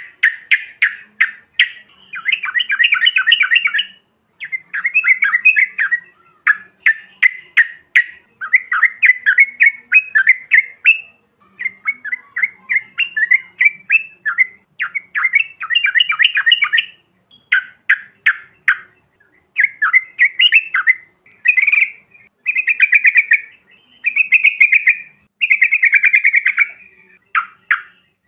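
Yellow-vented bulbuls (trucukan) singing: bursts of rapid, bubbling chattering phrases of a second or two each, following one another with short gaps.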